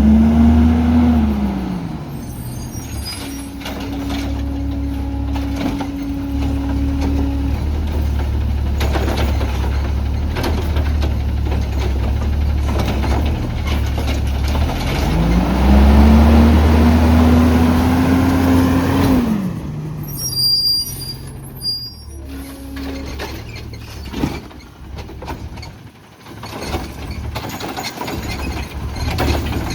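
CNG Autocar ACX garbage truck with a Heil Rapid Rail side-loader running, its engine revving up and back down twice as it powers the hydraulics. About twenty seconds in the engine drops to idle with a short hiss of air, followed by scattered mechanical clicks.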